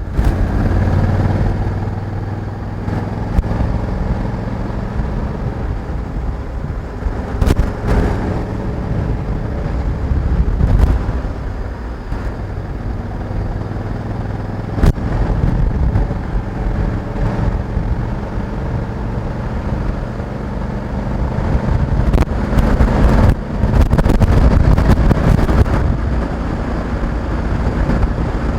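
Honda Africa Twin 1100 DCT's parallel-twin engine running while the motorcycle is ridden, its note swelling and easing with the throttle, with wind noise over the microphone.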